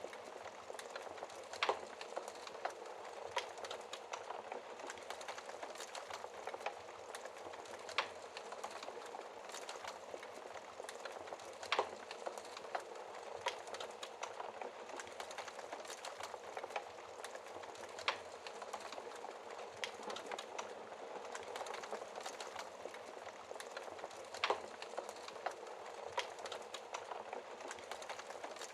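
Wood fire burning in a fireplace: a steady hiss of flames with irregular crackles and sharp pops from the burning logs, the loudest pops a few seconds apart.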